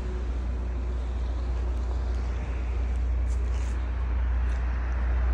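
Semi-truck's diesel engine and road noise while driving: a steady low drone with an even hiss of tyres and wind over it.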